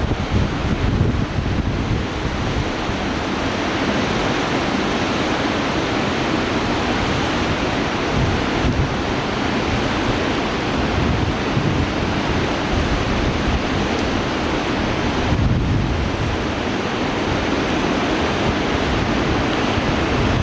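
Fast river water rushing steadily through a standing wave, with wind buffeting the microphone in uneven low gusts.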